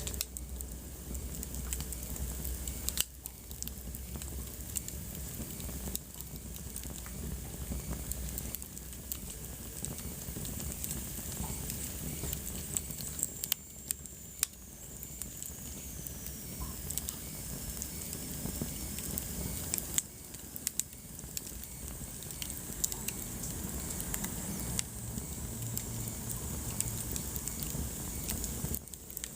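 Wood fire burning in a fireplace, crackling with frequent sharp pops over a steady low rumble of flames. Midway, a faint high whistle slides slowly down in pitch for a few seconds.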